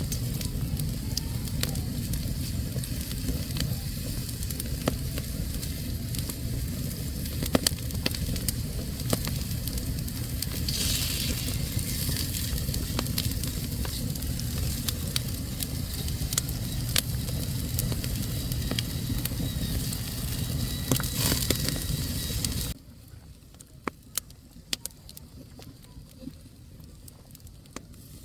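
Wood fire burning in a fireplace, crackling and popping with frequent sharp snaps over a low rumble. About 23 seconds in the sound drops suddenly to a much quieter level, and fainter crackles carry on.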